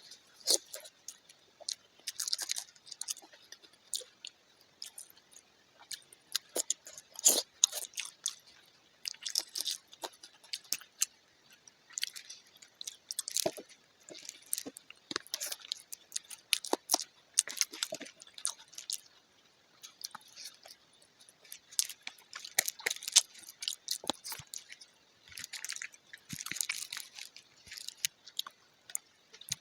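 Close-up eating sounds: a person chewing and biting mouthfuls of Manchurian, fried rice and hakka noodles fast, in quick irregular bursts of clicky mouth noises with short pauses.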